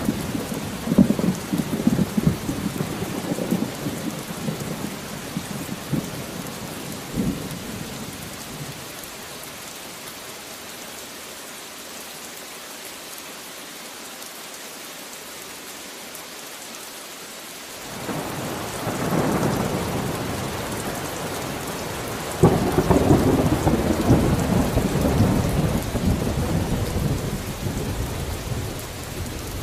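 Thunderstorm: steady rain hissing, with thunder rumbling and cracking in the first several seconds, dying away, then a new roll of thunder rising about two-thirds of the way in and fading toward the end.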